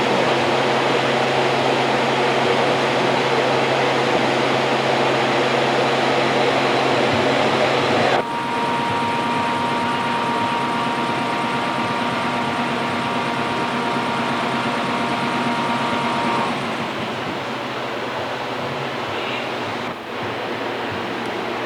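Steady machine running noise. About eight seconds in it changes abruptly and a thin steady whine joins it, and that whine stops again after about another eight seconds.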